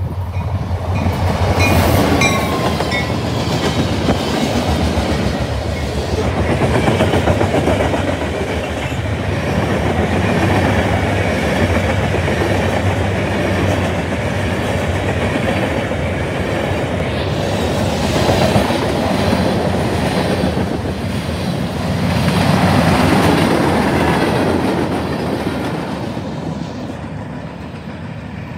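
Freight train of covered hopper cars passing close by: a steady rumble, with the wheels clattering on the rails. The diesel locomotive approaches at the start, and the noise swells and eases as the cars roll past.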